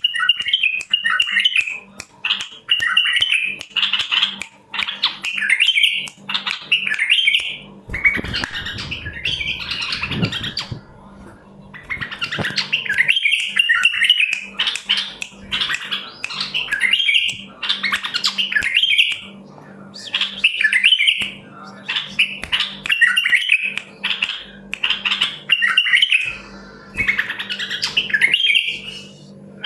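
White-eared bulbuls (white-cheeked bulbuls) singing short, bubbly warbled phrases, one after another every second or two. A low rumbling noise fills a pause about a third of the way through.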